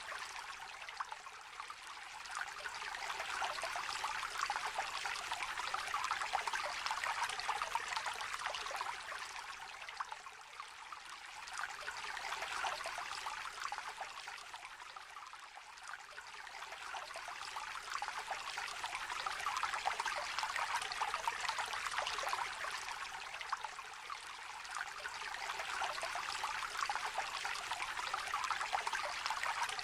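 Small river or brook trickling and babbling over stones, a continuous patter of little splashes that swells and eases gently every several seconds.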